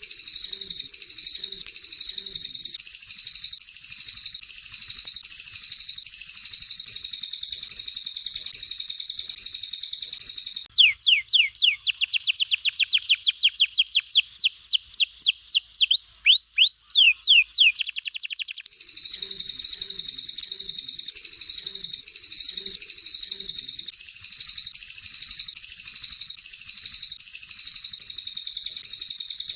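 Recorded songbird song of canary and cililin: a dense, high-pitched, continuous chattering trill. About 11 seconds in it gives way to some eight seconds of rapid repeated downward-sweeping whistles, several a second, before the chattering trill resumes.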